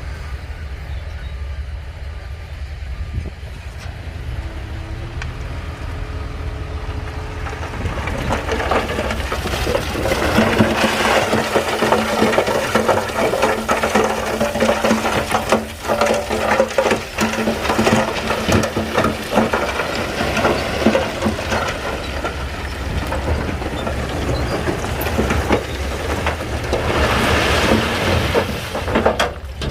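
Crawler bulldozer working: its diesel engine running under load with the steel tracks clanking and rattling, the clatter growing louder about a third of the way in.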